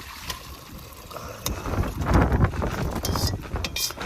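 Strong wind buffeting the microphone, a low rumble that gusts louder about two seconds in, with a few short sharp clicks near the end.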